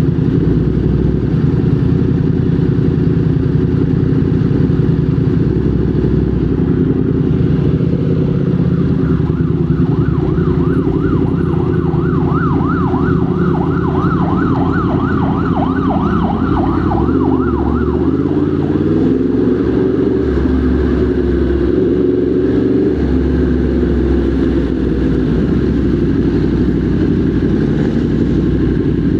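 Large motorcycle engine running at road speed in traffic. A fast warbling siren sounds over it from about a third of the way in until about two-thirds, and around then the engine note rises and falls with changes of speed.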